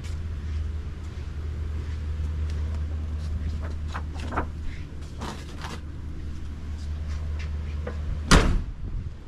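A steady low hum with a few light knocks, then a single loud slam near the end, like a car door being shut.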